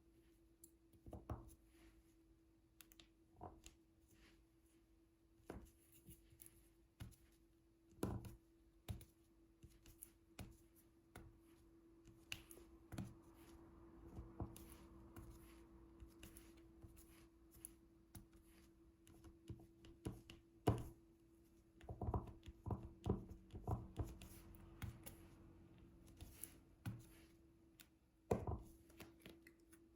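Diamond painting: light, irregular taps and clicks of a drill pen and resin drills on the canvas and drill tray, with a cluster of quicker taps a little past the middle. A faint steady hum runs underneath.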